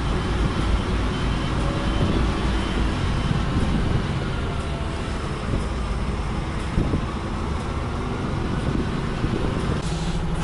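Truck's diesel engine running at low speed, heard from inside the cab, a steady rumble while the lorry creeps around a parking area.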